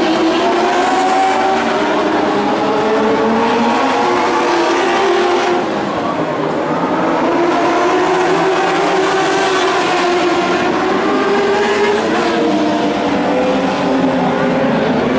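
Several dwarf race cars' motorcycle engines running hard around the track, their pitch rising and falling as they accelerate and lift off, several engines overlapping. The sound eases slightly about five and a half seconds in, then picks up again.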